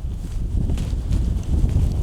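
Strong wind of a snowstorm buffeting the microphone in a continuous low rumble, with faint scattered knocks or crunches over it.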